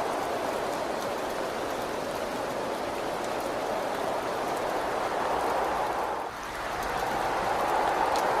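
Steady rain, a dense even hiss with scattered faint drop ticks. It dips briefly about six seconds in, then swells back.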